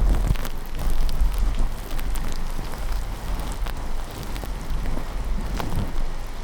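Steady heavy rain with a low rumble of thunder underneath and scattered light ticks.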